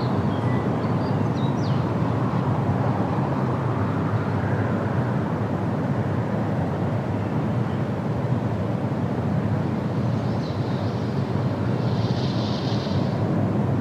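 Steady wind rushing through forest trees, with a few short, high bird chirps in the first two seconds.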